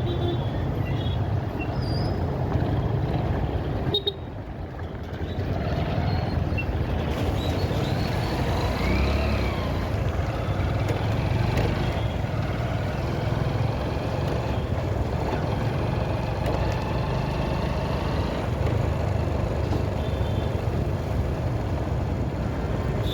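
Motorcycle on the move: engine running under a steady rumble of wind and road noise. The sound drops briefly about four seconds in, then picks up again.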